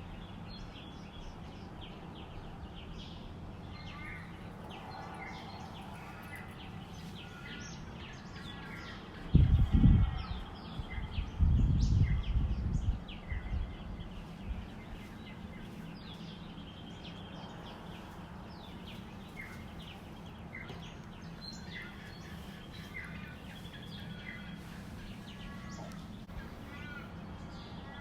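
Many birds chirping and calling together in a dawn chorus, over a steady low background rumble. About nine and eleven seconds in come two louder, short low rumbles.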